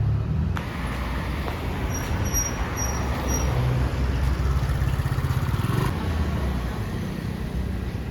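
A vehicle running with a low steady rumble, with four short high-pitched beeps about two seconds in.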